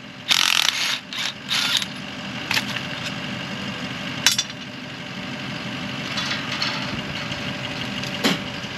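An engine idling steadily, with a quick run of sharp clanks and rattles in the first two seconds and a few single knocks after, typical of tools and pipe being handled at a wellhead.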